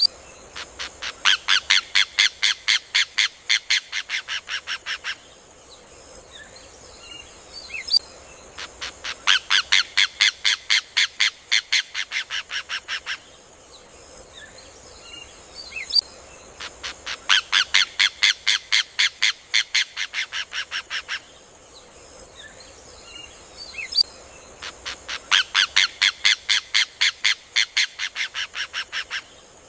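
Rufous hornero (João de Barro) singing its loud, rapid song: four runs of sharp repeated notes, about five a second, each run lasting about four seconds and fading toward its end.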